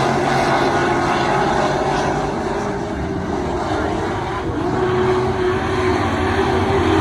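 Stock car engine running at speed on track. The engine note sags slightly in the middle and then climbs again.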